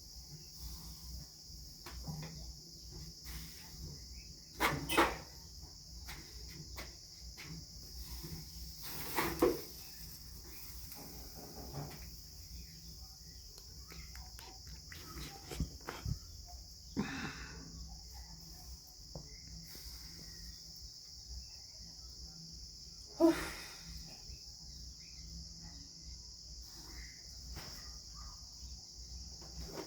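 Steady high-pitched drone of insects chirring, with a few sharp knocks or thuds at irregular intervals.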